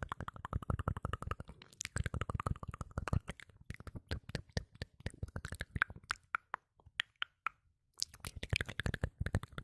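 Close-miked ASMR mouth sounds: rapid wet clicks and pops of the lips and tongue. They come in dense runs at the start and near the end, with sparser single clicks in between and a short pause about seven seconds in.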